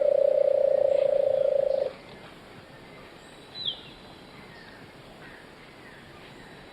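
A loud, steady, slightly buzzing note held at one pitch for about two seconds, then a single short, high chirp falling in pitch from a bird a little later.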